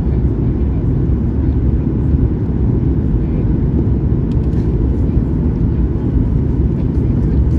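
Steady low rumble of cabin noise inside a Boeing 737 MAX 8 airliner in flight: engine and airflow noise, even throughout, with a few faint ticks.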